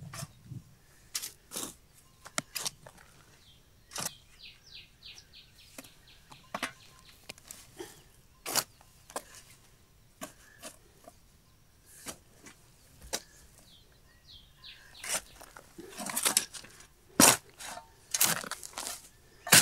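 A songbird singing two short runs of quick, high, falling notes, among scattered sharp clicks and knocks that grow louder near the end.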